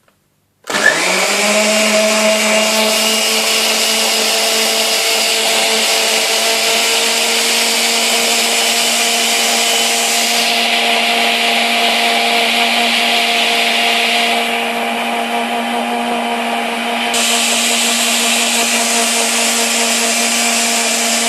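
Electric blender motor starting up and running at a steady high speed, blending a protein shake. It spins up quickly just under a second in, then holds one constant pitch.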